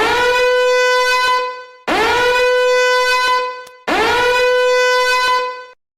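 A horn sounding three long, identical blasts, each scooping up into a steady note and holding it for almost two seconds.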